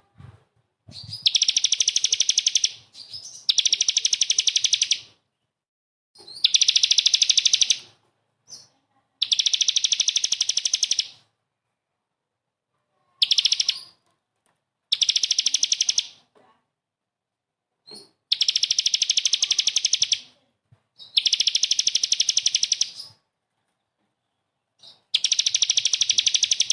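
Songbird singing harsh, rapid-fire trill bursts (the 'tembakan kasar' phrase). There are about nine bursts of one to two seconds each, high-pitched and dense, with short silences between them.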